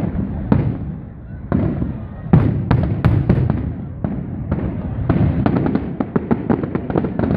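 Fireworks going off: a rapid string of sharp bangs and crackles over a low rumble, thickest about two to three and a half seconds in and again from about five seconds in.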